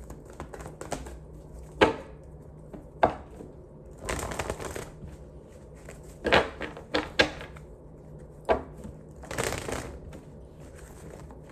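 Tarot cards being handled: two short shuffling swishes and several sharp taps and clacks in between.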